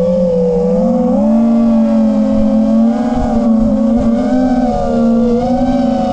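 FPV quadcopter's brushless motors and tri-blade propellers whining steadily, the several close pitches drifting up and down together as the throttle changes.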